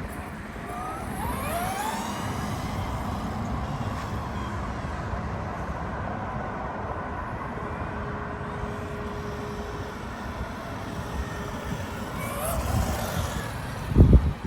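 Motor vehicle noise, with several short rising whines in the first two seconds and again near the end, and a loud low thump just before the end.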